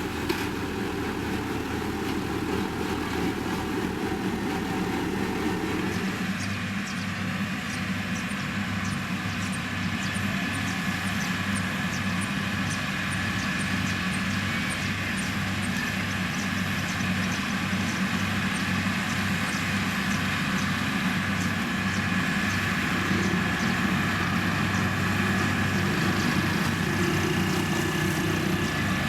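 Heavy diesel road-construction machine, such as a motor grader or road roller, running steadily under work with a steady high whine over the engine drone. The engine note shifts about six seconds in.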